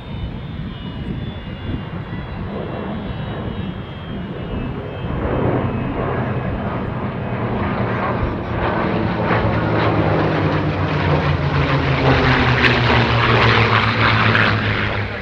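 Formation of a P-47 Thunderbolt and two P-51 Mustangs flying past, their Merlin V-12 and radial piston engines growing louder from about five seconds in. The engine note falls in pitch as they pass and is loudest near the end.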